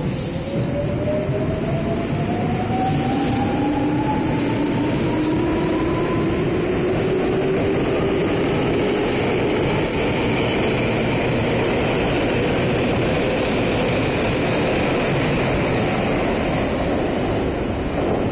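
Tokyu 9000-series electric train accelerating: the inverter-driven traction motors give a whine that climbs steadily in pitch over the first several seconds, over the rumble of wheels on rail that carries on to the end.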